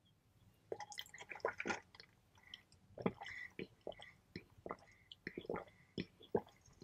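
Close-miked chewing of pho noodles: a steady run of short, wet mouth smacks and clicks, starting about half a second in.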